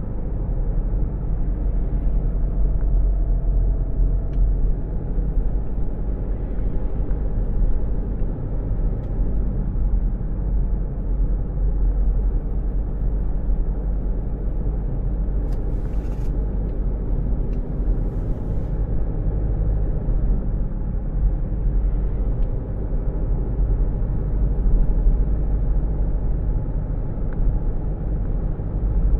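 Car running on the road: a steady low rumble of engine and tyre noise.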